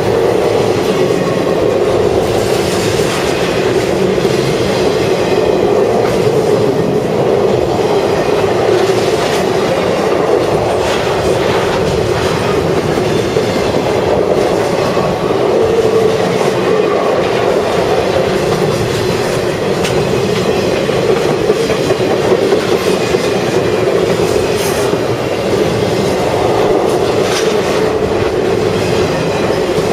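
Intermodal freight train cars rolling steadily past, steel wheels clattering over the rail with a faint squeal of wheels.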